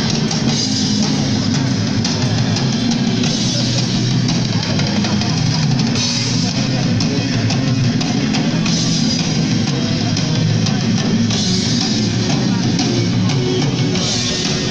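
Live punk rock band playing loud and fast, with pounding drums, crashing cymbals and distorted electric guitar.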